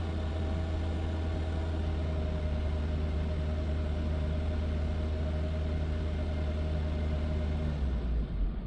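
Mazda car engine held steady at raised revs, about 2,500 rpm, heard from inside the cabin, for an alternator charging test. The steady note breaks off and changes near the end.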